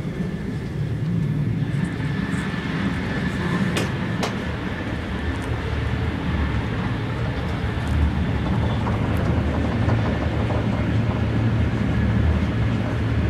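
Sapsan high-speed train running at speed: a steady low rumble and rush of running noise, heard inside the train by the gangway between cars, with a faint steady whine and two sharp clicks about four seconds in.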